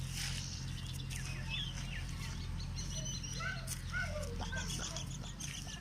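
Birds chirping in many short, high calls over a steady low hum.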